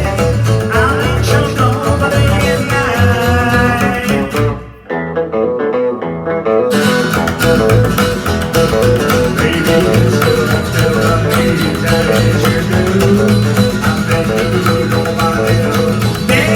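Live band music carried by guitar, an instrumental passage without clear singing. About four and a half seconds in the music drops to a brief, muffled break, and the full band comes back in about two seconds later.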